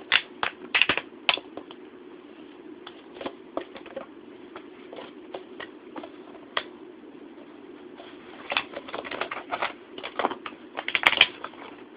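Cat chewing and batting a plastic water bottle: irregular crinkly clicks and crackles, in clusters near the start and again in the last few seconds, over a steady low hum.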